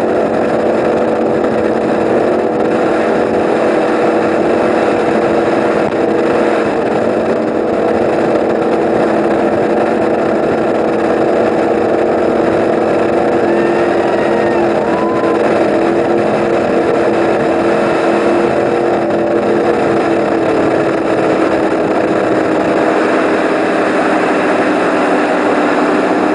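36-foot Eliminator powerboat's engines running flat out at a steady speed: a loud, constant drone whose pitch holds steady throughout.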